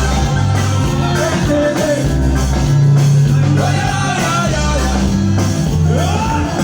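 Loud live band music with long, heavy bass notes and a voice singing a melody over it.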